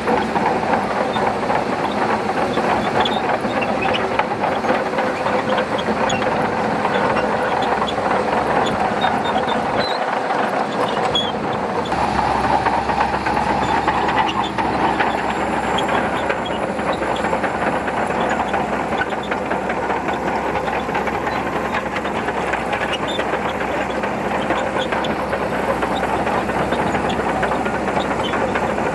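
Shantui DH17C2 crawler bulldozer working: its diesel engine running steadily under load, with the steel tracks clanking and rattling throughout.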